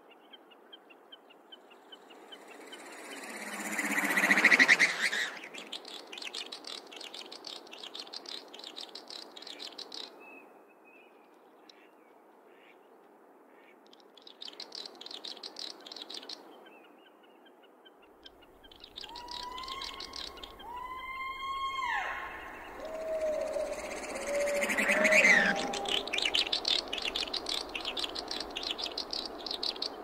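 Night-time outdoor soundscape of birds calling: a run of short pitched calls in the second half over a dense, rapid ticking, with two loud swells of noise, one about four seconds in and one near the end.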